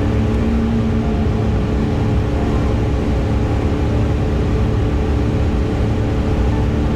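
Car cruising at a steady highway speed of about 60–65 mph, a constant drone of engine and tyre noise with a steady low hum.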